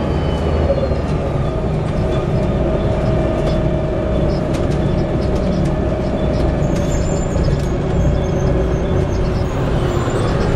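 Volvo B7TL double-decker bus with an Allison automatic gearbox on the move: a steady engine and drivetrain drone with a steady whine over it. The bus is known for a whistling, bad differential.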